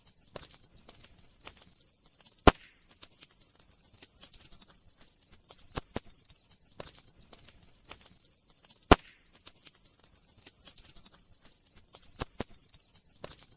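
Campfire crackling: sparse sharp pops a few seconds apart, the loudest about two and a half seconds in and about nine seconds in, over a faint steady hiss.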